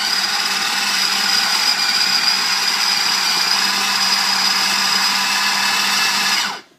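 Small 3-cup electric food chopper running steadily with a high whine as its blade chops boiled chicken, then cutting off shortly before the end.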